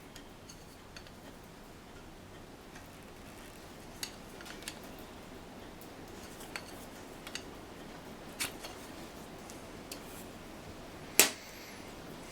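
Scattered light clicks and taps of small parts and tools being handled, with one sharper knock near the end.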